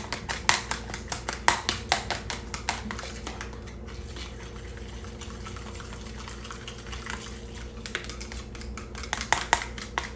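Eggs being whisked in a bowl, a utensil clicking rapidly against the bowl's side, several strokes a second. The clicking is loudest for the first few seconds, softens in the middle and picks up again near the end.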